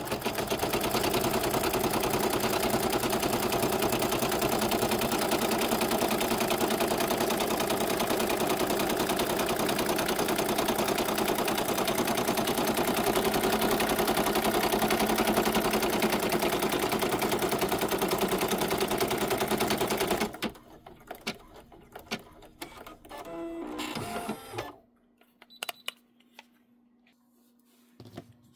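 Embroidery machine stitching steadily, then stopping abruptly about two-thirds of the way through. Scattered clicks and a brief rustle follow.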